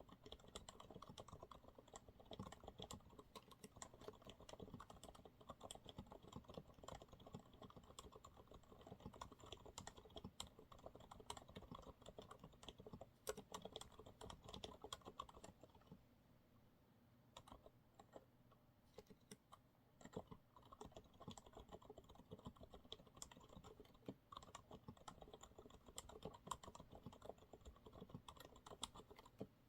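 Steady, soft typing on a Monsgeek MG108W full-size mechanical keyboard with TTC silent brown (dampened tactile) switches, in quick, irregular keystrokes. The typing thins to a few isolated strokes a little past the middle, then picks up again.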